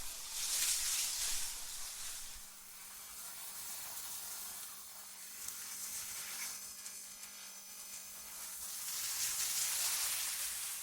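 AI-generated wind ambience: a hissing rush of wind that swells shortly after the start, dies down, and swells again near the end, over a faint steady low hum.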